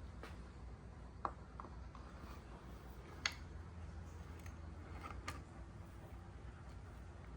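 Quiet workshop room tone with a low hum, broken by a few light clicks and taps of small parts being handled, the sharpest about a second, three seconds and five seconds in.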